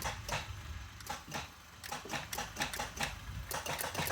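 Rapid, irregular clicking from a Mk3 Toyota Supra's electrics as the key is held in the start position, several clicks a second, with no cranking heard. It is the car's no-crank, no-start fault, cause unknown.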